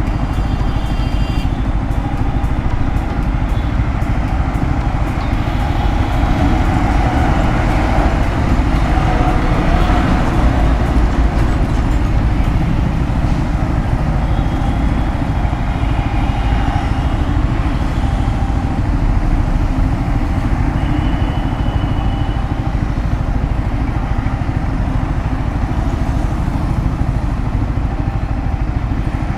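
Yamaha R15 V3 motorcycle running while riding, heard under steady wind rush on the camera mic, with traffic around and a few short high tones partway through.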